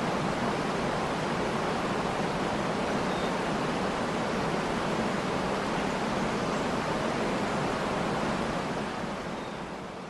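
Waterfall rushing steadily, with a few faint bird chirps; the sound starts to fade out near the end.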